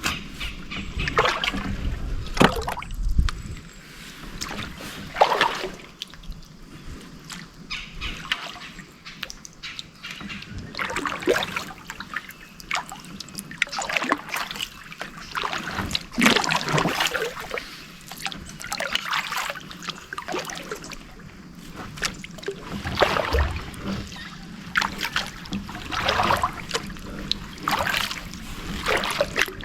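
Kayak paddle strokes: the blades dip and pull through the water about once every second or so, each stroke a short splash with water trickling and dripping off the paddle.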